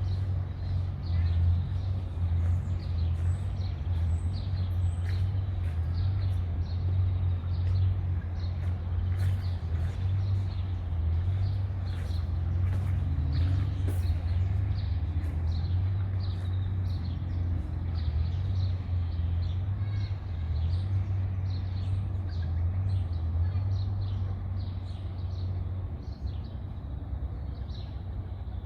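Small songbirds chirping and singing in short, repeated calls over a steady low rumble.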